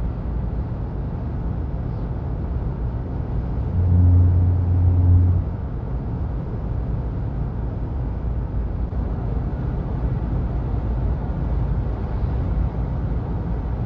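Road noise of a moving vehicle heard from inside: a steady low rumble, with a louder low hum for about a second and a half a few seconds in.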